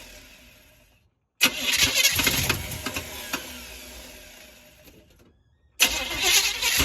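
Small-block Chevy V8 starting up, with the knocking on startup that the owner is asking about. Three starts are heard: one fading out at first, another starting abruptly about a second and a half in and dying away over a few seconds, and a third starting abruptly near the end, with brief silences between.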